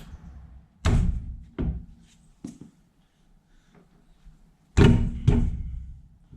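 A run of heavy thuds and clunks: one hard knock about a second in with a smaller one just after, a light knock, then two loud thuds close together near the end.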